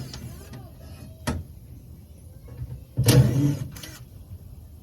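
A handheld power tool, such as a cordless driver used to take screws out of the AC unit's panels, runs in a short burst about three seconds in, with a brief second burst just after. There is a sharp click about a second in, over a steady low hum.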